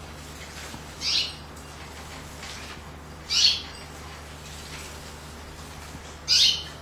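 A canary bathing: three short, high, hissy bursts about two to three seconds apart, the middle one loudest.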